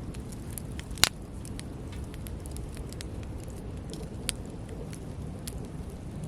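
Wood campfire crackling over a steady low rustle of flame, with scattered small pops and one sharp, loud pop about a second in and another pop past four seconds.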